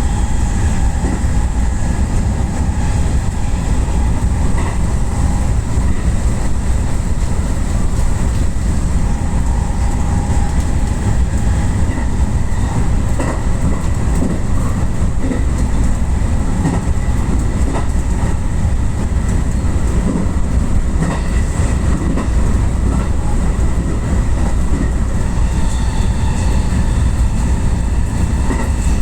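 Electric commuter train running along the line, heard from inside the leading car: a steady rumble of wheels on rail with a faint click now and then and a thin steady whine. A higher whine joins near the end.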